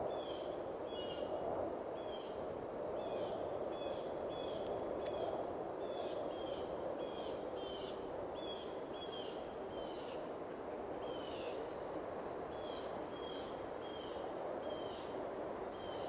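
Small birds chirping over and over, short high notes with a quick downward slide, coming about once or twice a second, over a steady low rush of background noise.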